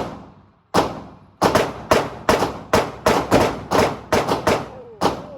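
Gunfire: about eighteen shots, two spaced out at first, then a fast, uneven string of shots, each with a short ringing tail.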